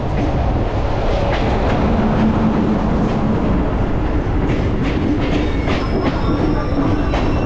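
Train running over rails and points: a steady rumble with repeated wheel clicks over the joints, heard from aboard a train with an open window, and thin high wheel squeals near the end.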